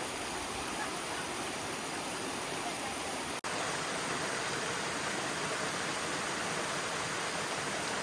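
Steady rushing of river water at a waterfall. It drops out for an instant about three and a half seconds in.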